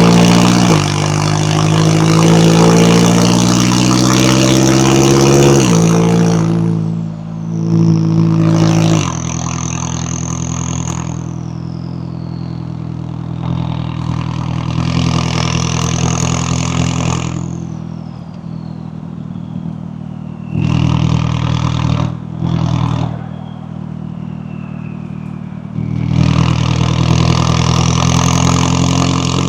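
McLaren 570S twin-turbo V8 pulling hard, its pitch climbing through the revs and dropping suddenly at two upshifts in the first six seconds. It then runs more quietly at lower revs with short bursts of throttle, while a high whine rises and falls several times.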